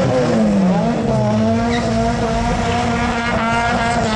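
Car engine revved hard, dropping back over the first second and then held at steady high revs over a haze of tyre squeal, as in a burnout.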